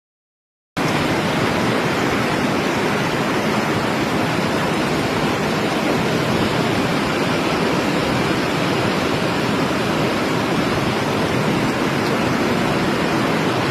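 Steady rush of fast-flowing water, starting abruptly about a second in and holding at an even level.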